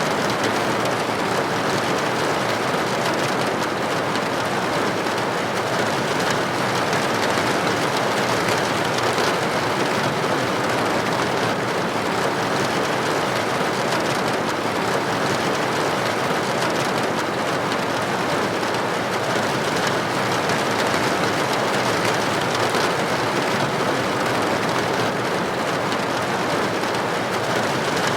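Steady rain falling, droplets pattering against a building window, with an even hiss and no pauses.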